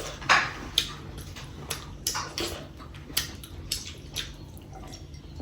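Wet eating mouth sounds: about a dozen short, irregular smacks and slurps of lips and tongue.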